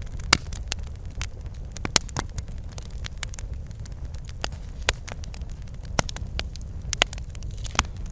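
Wood fire crackling in a fireplace: sharp pops and snaps at irregular intervals over a steady low rumble of the burning fire.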